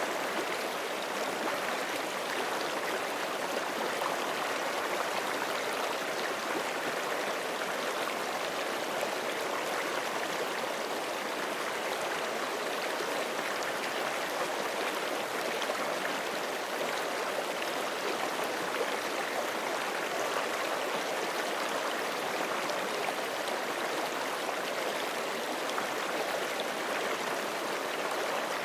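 Forest creek running steadily over rocks: an even, continuous rush of flowing water with no breaks.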